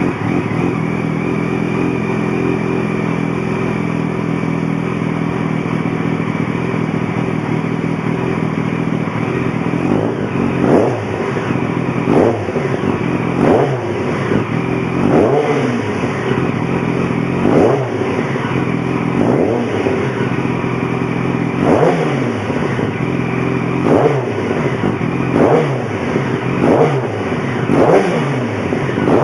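Yamaha FZ1's 998 cc inline-four running through an LYB titanium mid-pipe and muffler exhaust: a steady idle for the first ten seconds, then about a dozen quick throttle blips, each rev rising and falling back to idle.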